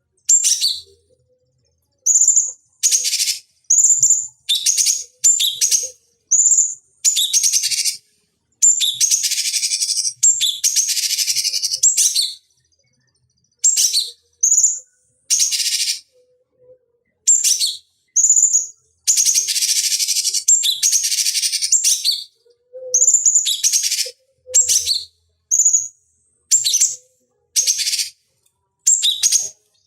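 Cucak cungkok (blue-winged leafbird) singing: a string of sharp, high chirps and whistled notes, broken by short pauses and twice by longer, rapid chattering phrases.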